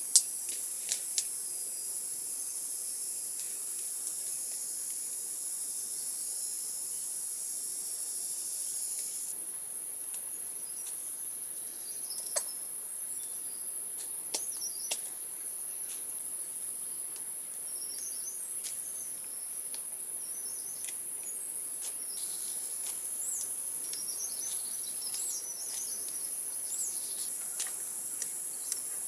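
Insects droning steadily in a high, even band, with a second lower buzz that cuts off about nine seconds in. Birds chirp intermittently through the second half, with a few sharp clicks.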